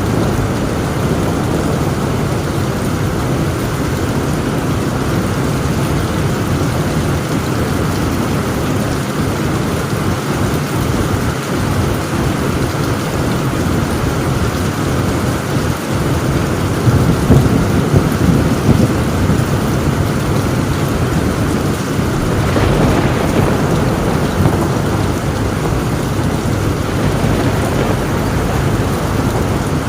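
Heavy rain drumming on a tin roof in a steady hiss, with thunder rumbling low and swelling a little past halfway through.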